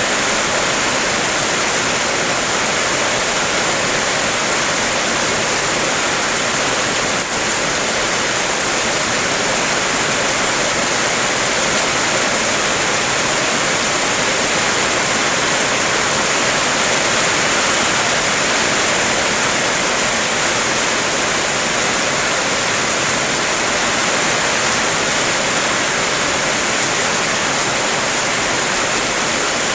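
Heavy rain falling: a steady, dense hiss with no separate drops standing out.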